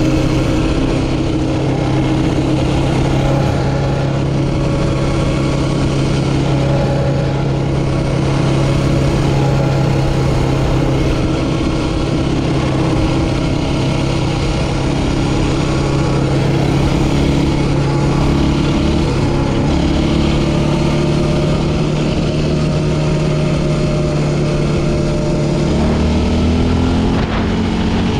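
Yamaha Raptor 700R quad's single-cylinder four-stroke engine running at a steady speed, its note changing and rising near the end.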